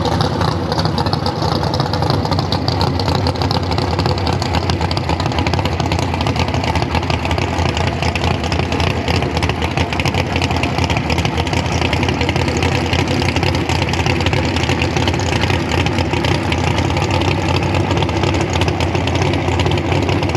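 Truck engine running steadily with a deep, even rumble.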